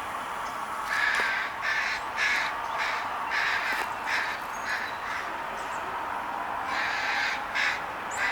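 Crows cawing in a quick series of harsh calls, then a few more near the end: the crows are mobbing a red-tailed hawk perched in a tree.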